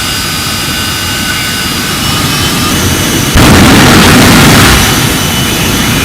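Jet engine of a jet-powered fire truck running: a loud rushing roar with a steady high turbine whine. It gets abruptly louder about a third of the way through.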